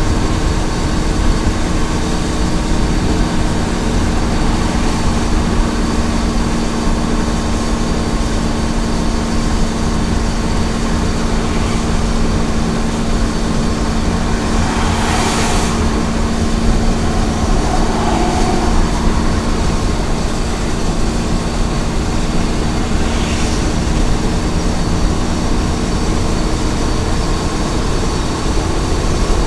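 Small truck's engine and road noise at steady highway cruising speed: a constant low drone with a steady hum. About halfway through a brief rushing whoosh swells and fades, and a fainter one comes a little later.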